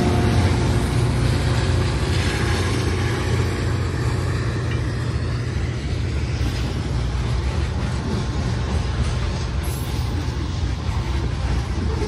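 Great Lakes Central Railroad train passing: a steady low rumble from the diesel locomotive and rolling rail cars, easing slightly in the first few seconds and then holding level.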